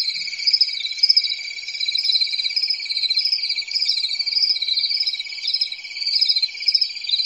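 Insects chirping: a steady high trill with a second, pulsing chirp above it, about two pulses a second.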